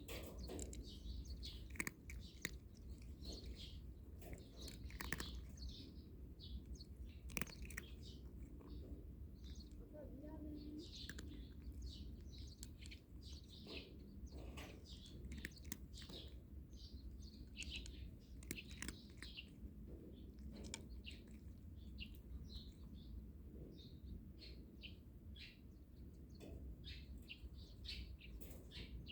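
Small birds chirping on and off throughout, in many short high calls, with a few sharp clicks mixed in.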